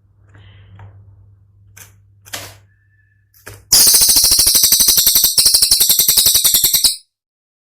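A cililin songbird's rapid-fire rattling call: a loud, dense run of sharp clicking notes that starts about halfway in, lasts about three seconds and stops abruptly. Before it come a few faint calls over a low hum.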